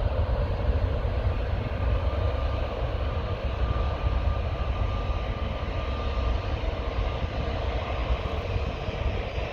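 EasyJet Airbus A319 departing, its jet engines giving a steady rumble with a faint high whine that fades slowly.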